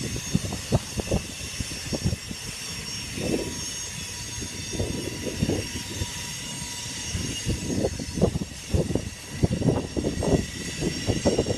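Loaded freight cars of a BNSF grain train rolling past, their wheels knocking and clunking irregularly over the rail joints, with the clunks coming thicker near the end, over a steady high rail hiss.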